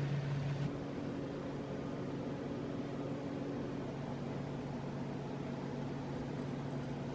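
Steady low hum of a running appliance; its tone shifts slightly under a second in.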